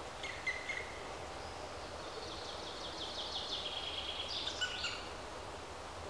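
Bird calling in woodland: a short call under a second in, then a quick trilled series of notes lasting nearly three seconds and ending in a few higher notes, over a steady background of outdoor noise.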